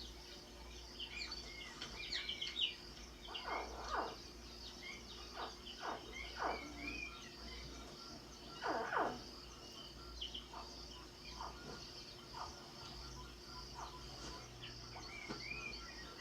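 Newly hatched crocodiles giving short cries, each one sweeping down in pitch, scattered irregularly, over a steady background of insects and birds.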